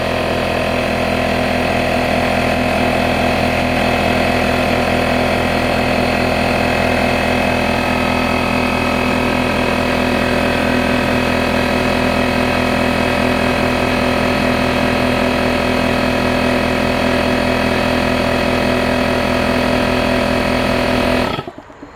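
Craftsman 6-gallon pancake air compressor running steadily as it pumps up its tank, then shutting off abruptly near the end as the pressure switch cuts out at 150 psi.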